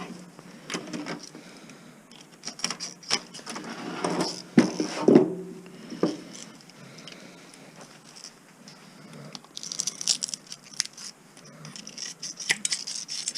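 Irregular metallic clinks, taps and scrapes of parts being handled while a stereo amplifier is stripped for scrap, coming in spells with short pauses between.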